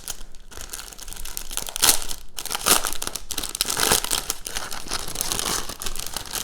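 Crinkling and rustling of packaging as a diamond-painting mask kit is opened and unpacked by hand, with louder crackles about two and four seconds in.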